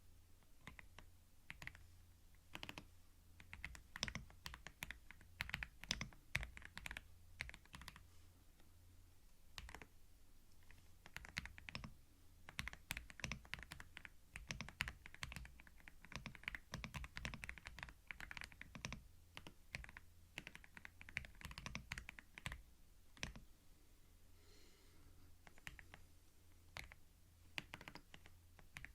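Computer keyboard typing, close to a binaural microphone: a quick, irregular run of soft key clicks, with a short pause a few seconds before the end.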